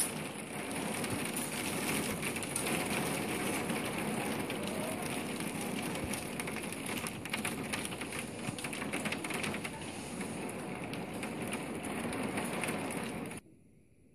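Steady rain falling on a garden, a dense patter of drop hits over a constant hiss. It cuts off suddenly near the end.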